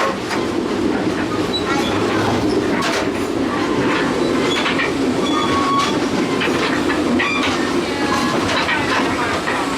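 Passenger train car rolling along the track, heard from aboard: a steady rumble with scattered clicks from the wheels and rail joints.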